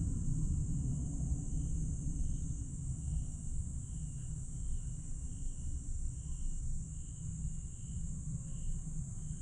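Night chorus of crickets and other grass insects: a steady high shrill trill with a slower chirp pulsing roughly every half second, over a low rumble.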